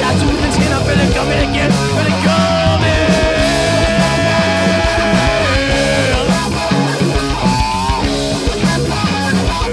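Punk rock band playing live, loud and dense, with one long held high note lasting about three seconds near the middle and a short bending note later on.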